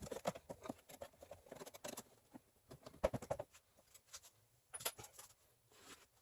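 Irregular light clicks, taps and rustling of small objects being handled, a few louder knocks among them.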